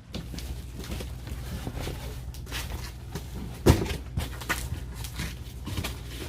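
Split firewood being handled: irregular knocks and clatter of wooden pieces, with one loud knock a little past halfway, over a steady low hum.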